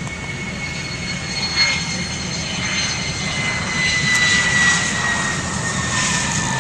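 Jet aircraft engines running with a high whine that slowly falls in pitch over a steady rumble, growing slightly louder past the middle.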